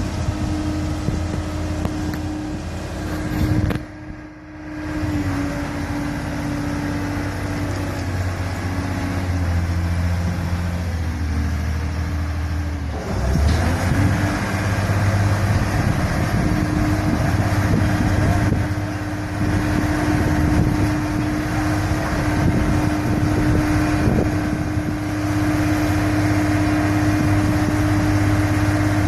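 A boat engine running steadily with a constant hum, broken abruptly about four seconds in and again about thirteen seconds in.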